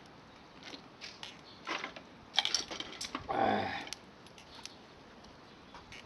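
Dry branches being snapped by hand for firewood: a string of sharp cracks, the loudest about two and a half seconds in, then a longer splintering break a second later.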